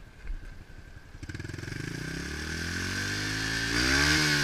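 110cc pit bike's single-cylinder four-stroke engine pulling away about a second in, its pitch and loudness climbing steadily to a peak near the end, then starting to drop.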